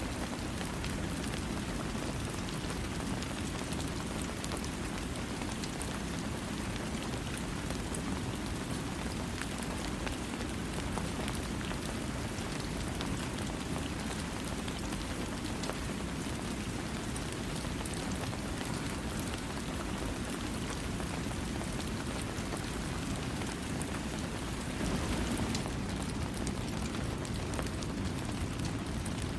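Steady rain falling and pattering on surfaces, with no thunder; it swells slightly a little after three-quarters of the way through.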